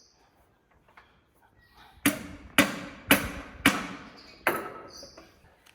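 Five sharp hammer blows on metal, roughly half a second apart, each with a short metallic ring, struck while freeing a connecting rod cap on the International Harvester 1066 engine.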